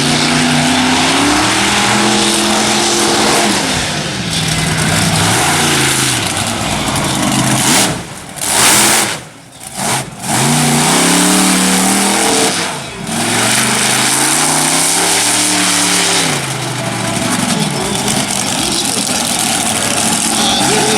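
Monster truck engine revving hard, its pitch rising and falling again and again over a loud rushing noise, with a couple of sudden short breaks about eight to ten seconds in.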